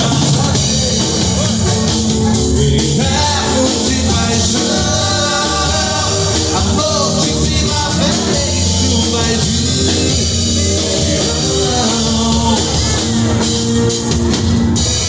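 Band music with drum kit, bass and guitar under a melodic lead line.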